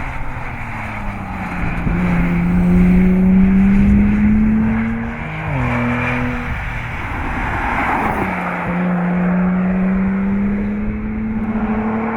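Sports car engine accelerating hard through the gears: the exhaust note climbs steadily, drops sharply at an upshift about five and a half seconds in, climbs again, drops at a second upshift about eight seconds in, then climbs once more.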